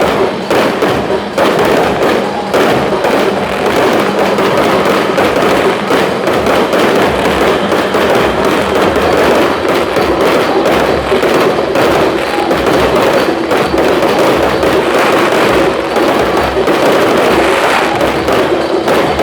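Fireworks display: many shells bursting and crackling in quick succession, a dense, steady stream of bangs with no pause.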